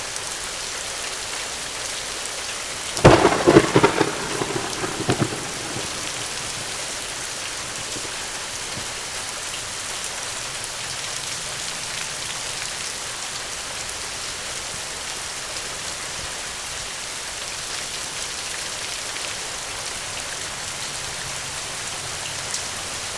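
Heavy rain falling steadily, with a sudden thunderclap about three seconds in that crackles and rumbles for a couple of seconds before dying away.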